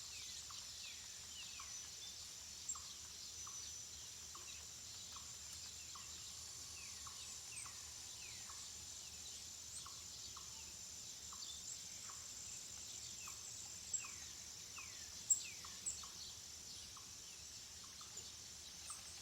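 Wild birds calling in a forest: many short falling whistled notes and a regular run of brief chirps, over a steady high-pitched drone. A few sharper, louder high chips stand out about two-thirds of the way through.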